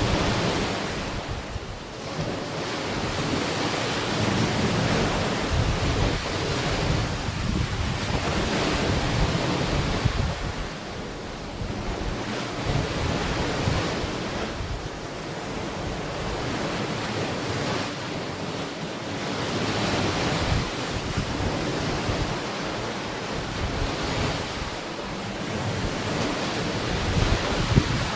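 Ocean waves washing onto a beach, the surf swelling and ebbing every few seconds, with wind buffeting the microphone in low rumbles.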